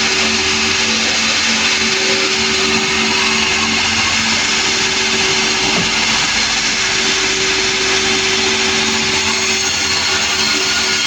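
Sawmill machinery running with a loud, steady mechanical noise and an even hum underneath.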